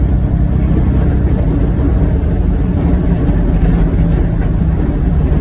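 John Deere Gator XUV835M utility vehicle running steadily while pushing snow with its front blade, a constant low engine and drivetrain rumble.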